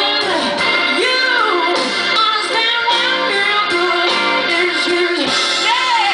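Live band music: a woman singing over electric guitar, with notes that swoop up and down in pitch.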